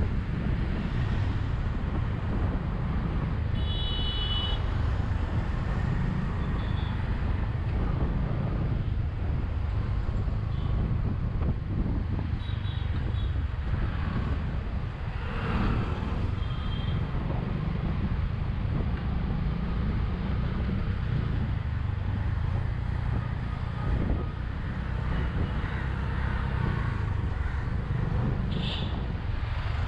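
Steady wind rush and low rumble from riding a Bajaj V15 motorcycle, with the engine running underneath. There are short high beeps like vehicle horns a few times.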